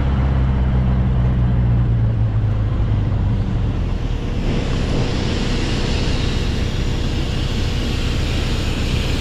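Classic car driving at road speed: a steady engine drone with tyre and wind noise. The low engine hum fades over the first few seconds, and a rushing hiss swells about four seconds in.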